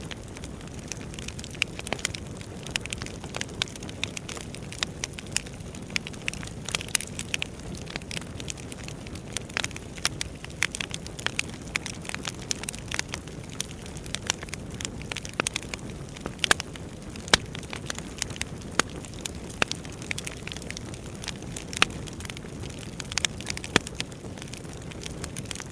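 Wood fire burning, with a steady low rumble and frequent irregular crackles and pops of burning logs.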